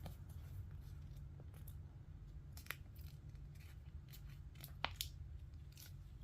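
Scattered light clicks and taps from hands handling plastic Lego parts and sticker sheets, the sharpest two close together near the end, over a faint steady low hum.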